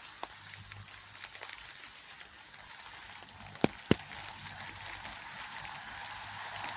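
Rain falling steadily, an even hiss, with two sharp taps about a quarter second apart a little past halfway through, louder than the rain.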